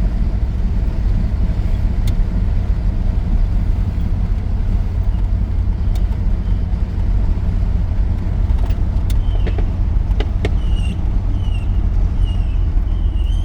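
Old pickup truck's engine and road noise heard from inside the cab while driving, a steady low rumble. Over the last few seconds a string of short, high, falling chirps repeats, with a few faint clicks.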